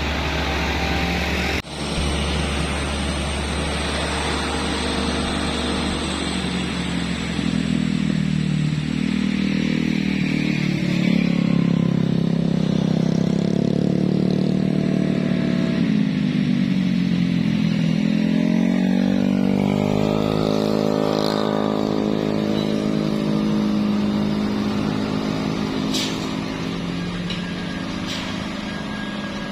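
Heavy diesel truck engines on a steep road. The engine note rises and falls over several seconds as the trucks labour and pass, then holds steadier, with a few sharp clicks near the end.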